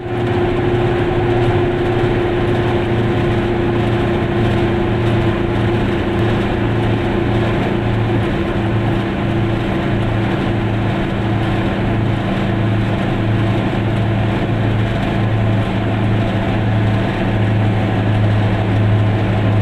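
Goggomobil's two-stroke twin-cylinder engine running steadily at cruising speed, heard from inside the small car over an even rush of tyre and road noise.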